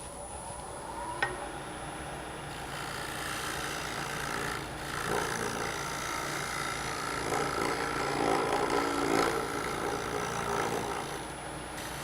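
Turning tool taking light cleanup cuts on a maple tenon spinning on a wood lathe, a continuous scraping hiss that swells and eases, to remove torn grain before sanding. A short click sounds about a second in.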